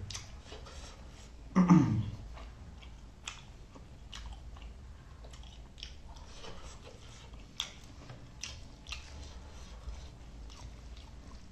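A person chewing food close to the microphone, with irregular mouth clicks throughout and a brief voiced sound about two seconds in.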